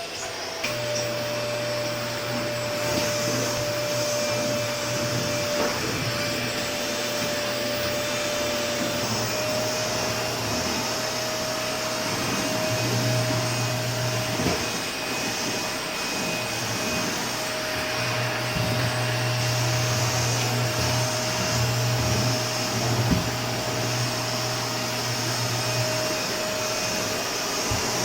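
Vacuum cleaner running steadily, its motor giving a constant whine over a rushing hiss. The lower part of the sound swells and fades now and then, with a few short clicks.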